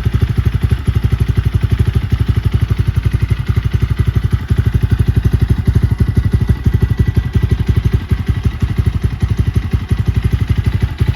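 Templar X 250 engine, freshly swapped into a Vitacci GTX with a replacement flywheel and stator, idling steadily in neutral with an even rapid pulse.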